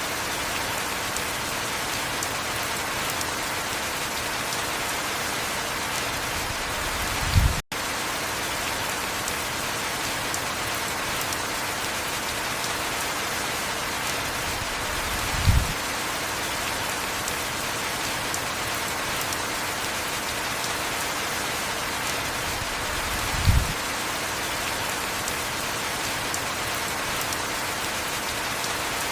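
Heavy rain falling steadily in an even hiss. A brief low thud comes about every eight seconds, three times. Just after the first thud the sound cuts out for an instant.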